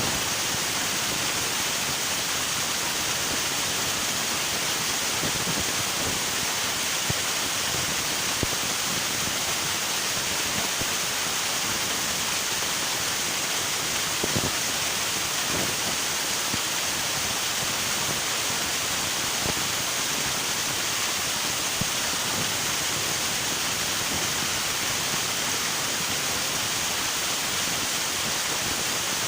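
River water rushing and splashing in a steady, even flow, with a few faint splashes or ticks.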